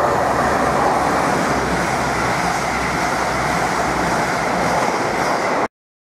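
Class 222 Meridian diesel multiple unit passing through the station at speed, a loud steady rush of train noise that cuts off suddenly near the end.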